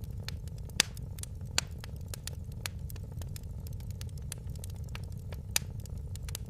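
Wood fire crackling in a fireplace: many sharp crackles over a steady low rumble, with three louder pops, two in the first two seconds and one near the end.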